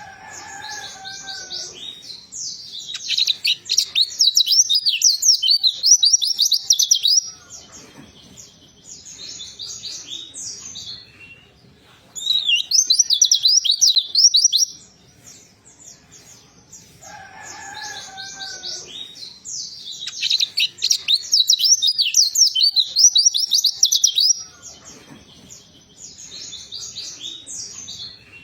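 White-eye (pleci) singing: several loud bursts of fast, high twittering song, each a few seconds long, with quieter chirps between them. A lower whistled glide sounds near the start and again about halfway through.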